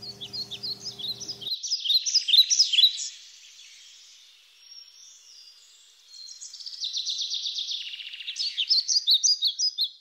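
Birds chirping and trilling in quick runs of high notes. The song thins to a faint lull in the middle, then returns busier near the end.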